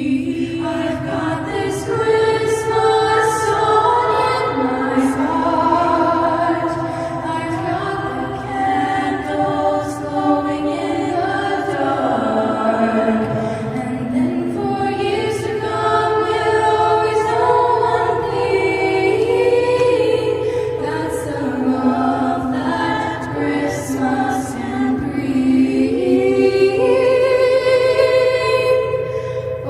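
School choir singing in harmony, several voices holding and moving chords.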